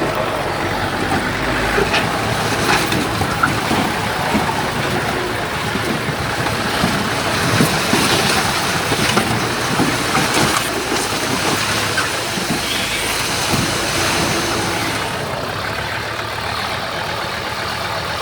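Heavy diesel earthmoving machinery running under load, with frequent metallic clanks and knocks over the steady engine noise.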